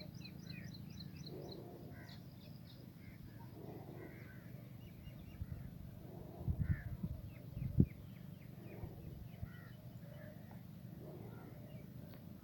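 A number of birds calling over one another, with repeated harsher calls and higher, quick chirps. A few low thumps sound about six to eight seconds in, and the last of them is the loudest sound in the stretch.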